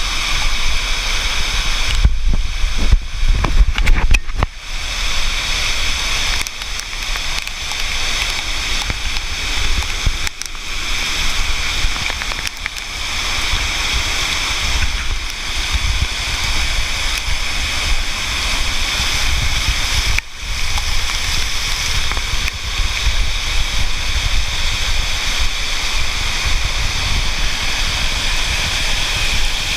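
Flash-flood water rushing steadily, with a heavier low rumble for a couple of seconds near the start.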